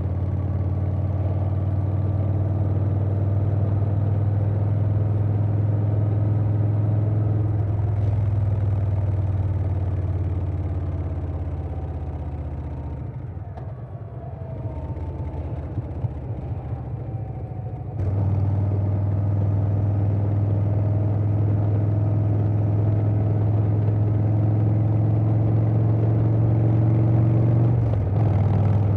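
A 2020 Harley-Davidson Softail Standard's Milwaukee-Eight V-twin running through a Vance & Hines Big Radius 2-into-2 exhaust while riding, with wind noise over it. About a third of the way in the throttle eases off and the note drops to a lumpy, loping off-throttle beat. About two-thirds in it comes back on sharply and pulls steadily, with a brief dip near the end.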